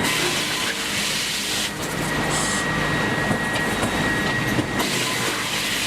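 Sawmill optimizer and multi-rip saw line running: a steady, loud mechanical clatter and rumble of conveyors and saws.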